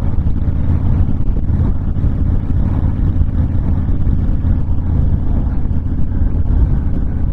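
Honda VTX1300 cruiser's V-twin engine running steadily at cruising speed, mixed with wind noise.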